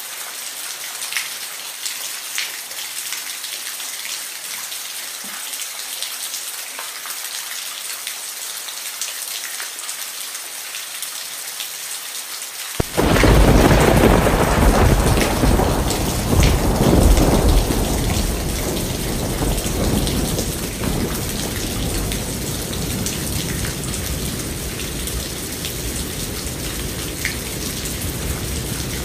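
Steady rain with scattered drips; about 13 seconds in, a sudden loud clap of thunder that rumbles on and slowly fades over several seconds while the rain continues.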